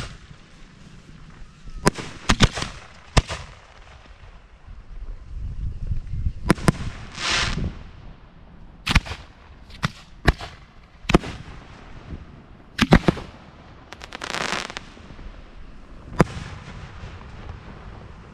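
Aerial fireworks shells being fired: a series of sharp bangs at irregular intervals, some in quick pairs. Twice there is a longer rushing blast lasting about a second.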